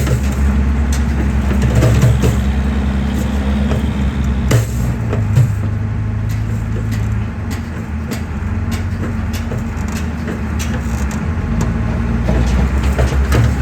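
Excavator's diesel engine running steadily under load, with scattered sharp cracks and knocks of concrete being crushed, the loudest about four and a half and five and a half seconds in.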